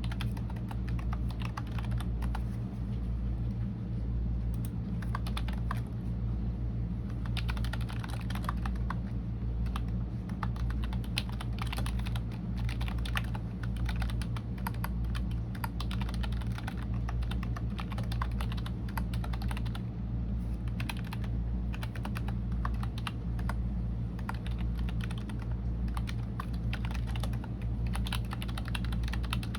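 Continuous typing on a computer keyboard: a fast, irregular run of key clicks with short pauses, over a steady low hum.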